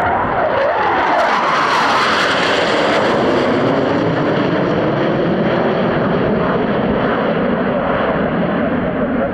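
Dassault Rafale jet fighters making a low fly-by, their twin turbofan engines giving a loud roar. It swells at once, is harshest with a high hiss a second or two in, then dulls into a steady rumble as the jets pass and draw away.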